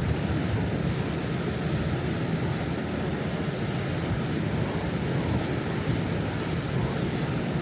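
Steady wind buffeting the microphone over a low, even rush of water.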